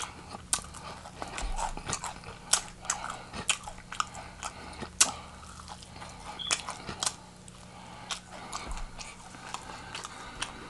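Close-miked chewing and biting into crispy fried chicken wings: irregular sharp crunches of the fried crust, many in the first half and fewer later on.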